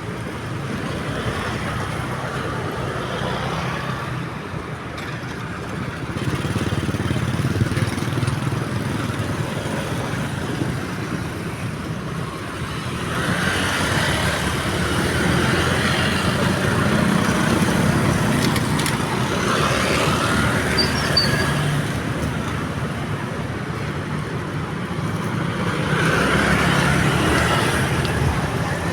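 Road traffic passing steadily, vehicles swelling louder and fading as they go by, with no train or crossing bell yet.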